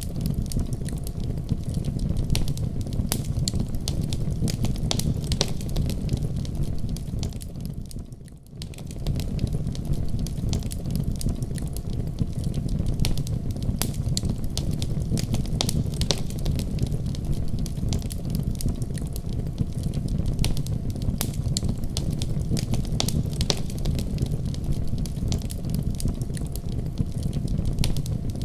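Wood fire crackling in a fireplace: a steady low rumble of flame with frequent sharp pops and snaps. About eight seconds in it briefly fades quieter, then comes back.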